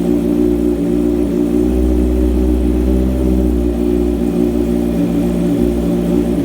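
Honda CBR650R's inline-four engine running at a steady, unchanging pitch.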